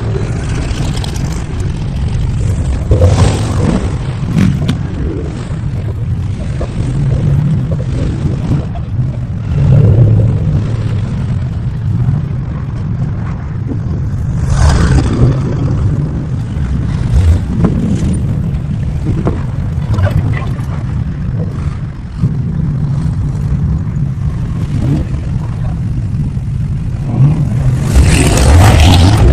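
Car engines running: a steady low rumble with several louder swells, the loudest near the end.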